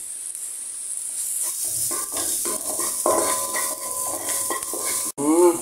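Chopped garlic and onion sizzling in oil in a nonstick wok, with a wooden spatula scraping and stirring them around the pan in repeated strokes from about two seconds in.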